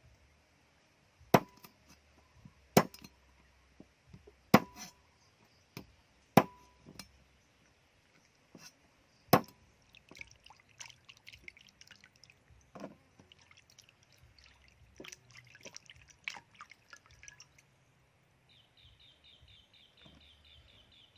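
Heavy chopping blows on a wooden board: five sharp, widely spaced strokes with a brief ring, followed by lighter, irregular clicking and clattering. Near the end a fast, evenly repeated high chirping begins.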